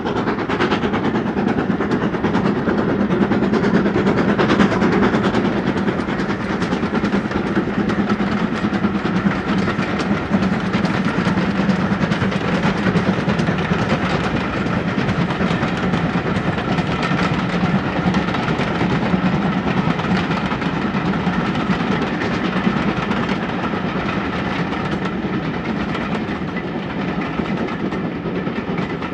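Steam-hauled passenger train running along the track: a steady rolling noise of steel wheels on rail, with many small clicks, a little louder about four to five seconds in.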